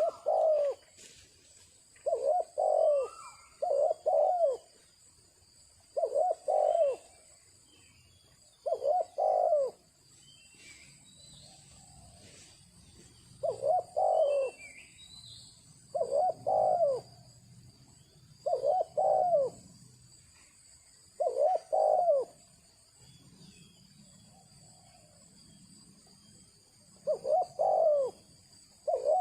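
A dove cooing in short, low, two-part phrases, repeated every two to three seconds with one longer pause partway through.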